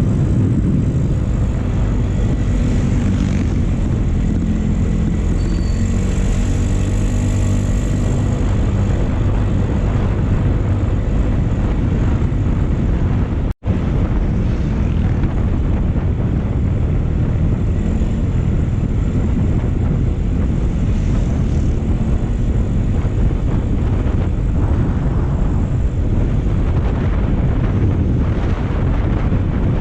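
Motorcycle running on the move, its engine mixed with steady wind rush on the microphone. The sound cuts out for an instant a little under halfway through.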